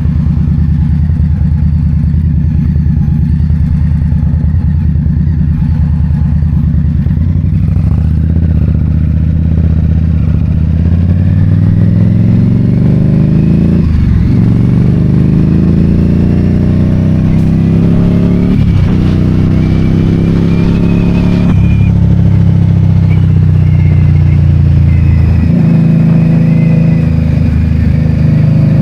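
2022 Indian Scout Bobber's liquid-cooled V-twin engine under way: running steadily at first, then accelerating through the gears, the pitch climbing and dropping back at three gear changes in the second half, before settling into a steady cruise.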